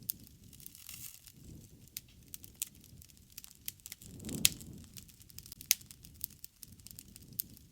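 Wood campfire crackling, with irregular sharp pops over a soft low rumble of the flames; the loudest pop comes about four and a half seconds in.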